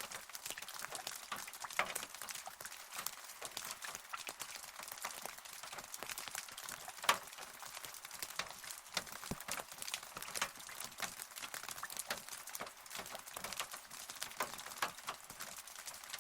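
Rain falling, heard as many separate drops ticking irregularly over a light hiss, with one louder drop about seven seconds in.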